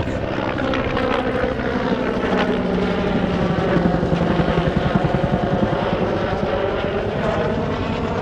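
Bell Vietnam-era helicopter flying past with a rapid rotor beat over a steady turbine tone, which drops in pitch a little over two seconds in as it passes.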